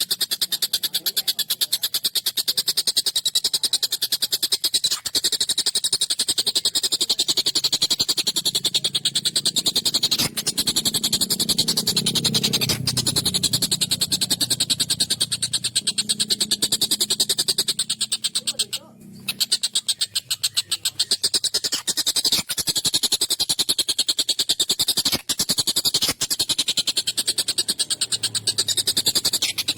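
Tengkek buto, the stork-billed kingfisher, calling in a fast, unbroken rattling chatter made of rapid clicks, with one short break about nineteen seconds in.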